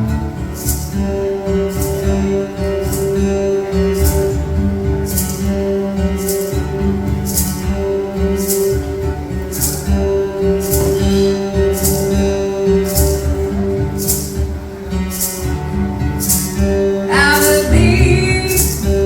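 A duo playing a song live: sustained instrumental chords with a steady high percussive shake on the beat, about every two-thirds of a second. A voice comes in singing near the end.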